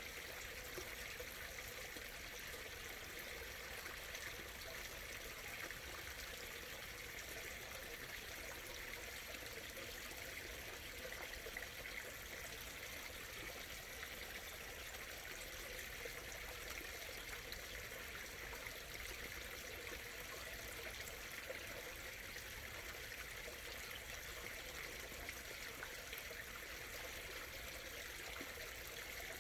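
A small stream murmuring and trickling, steady and even.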